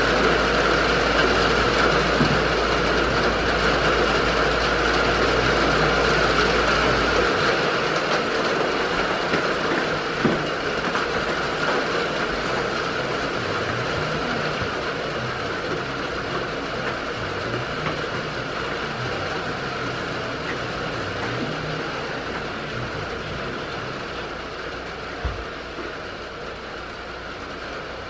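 Steady rain on the barn roof, a dense even hiss that slowly grows quieter, with a couple of faint knocks.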